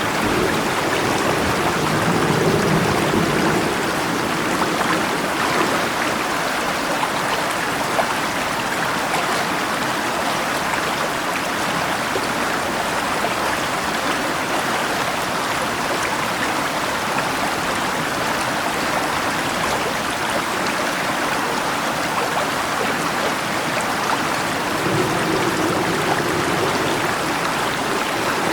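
Steady rushing of a flowing river, an even wash of water noise. A low rumble of thunder lingers in the first few seconds and another builds near the end.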